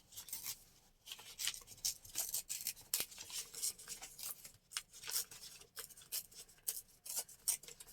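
Scissors cutting paper: a quick, irregular run of short snips.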